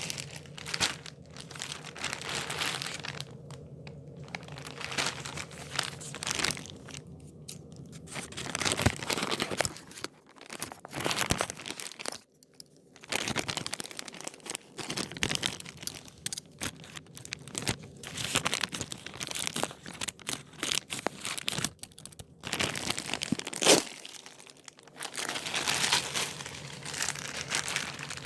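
Packaging being crinkled and torn open by hand in irregular bursts with short pauses, to get a plush toy out. One sharp snap comes about three-quarters of the way through.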